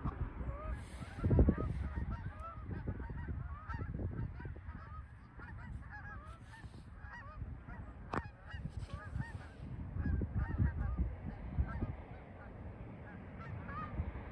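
A flock of geese honking, many short calls overlapping continuously, over wind rumbling on the microphone.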